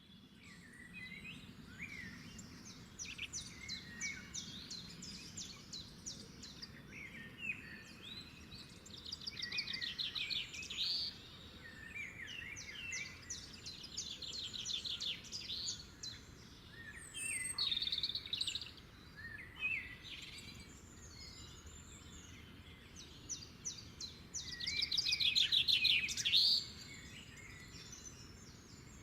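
A recording of several songbirds singing and chirping, with repeated fast trills over a faint steady background. The loudest trill comes a few seconds before the end.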